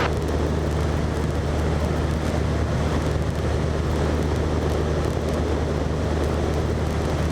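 Cessna 172's piston engine and propeller running steadily at full power in the climb after takeoff, a constant low hum.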